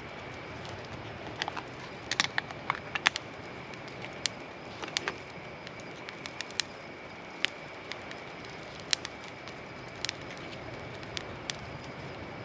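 Wood campfire crackling: irregular sharp pops, a quick cluster of them about two to three seconds in and scattered ones after, over a steady soft hiss and a faint high steady tone.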